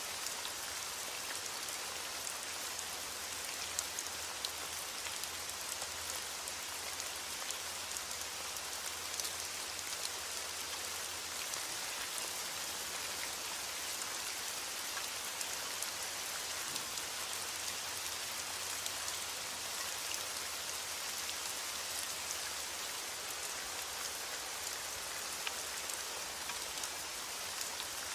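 Heavy rain beating steadily on window glass, an even hiss with scattered sharp ticks of drops, over a faint low rumble.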